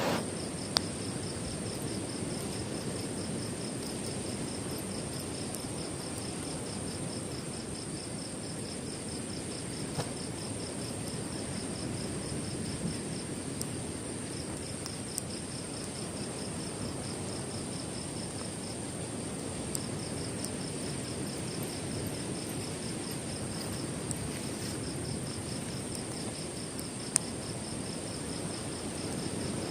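Night insects, crickets among them, calling steadily: one fast pulsing trill and a higher continuous whine. They sit over a steady low rush of surf and wind, with a few sharp ticks scattered through.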